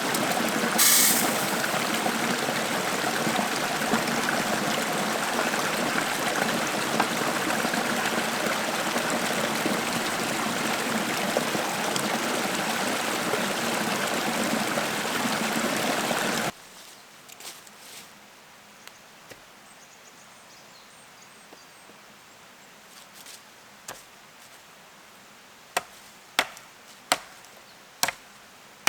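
A rushing mountain stream gives a steady, even noise that cuts off suddenly a little over halfway through. Then comes a quieter stretch and, near the end, a quick run of sharp knocks like wood being chopped or split with a blade.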